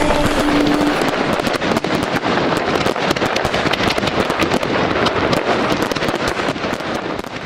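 Fireworks crackling: a dense, rapid crackle of many small pops, thinning and fading near the end.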